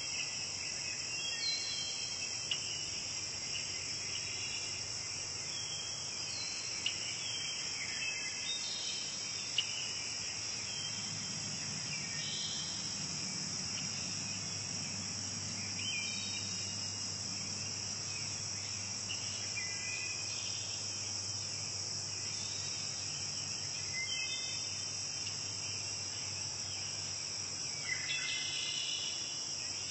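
Steady, high-pitched chorus of insects, with short chirping calls scattered through it every few seconds.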